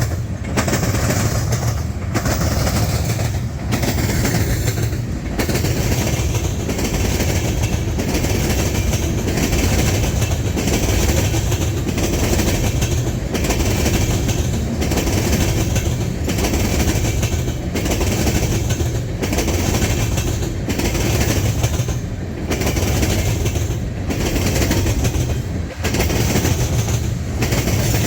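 Freight train cars rolling steadily past, their wheels clicking and clattering over the rails, with brief regular dips in the sound every second or two.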